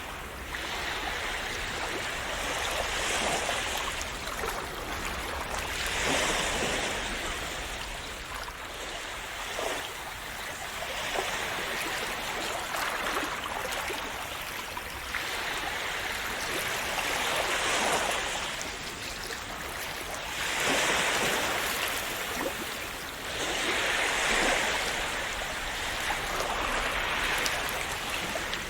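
Sea waves breaking and washing on the shore: a continuous rush of water that swells and eases with each wave every few seconds.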